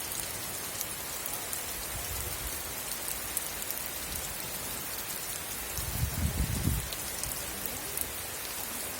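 Heavy rain falling steadily, a dense even hiss with scattered sharp drop ticks. About six seconds in there is a brief low rumble.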